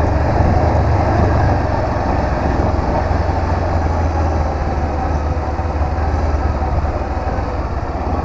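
Honda CB500X parallel-twin motorcycle engine running steadily on the move, a continuous low rumble under a dense rush of riding noise. It eases a little after about five seconds.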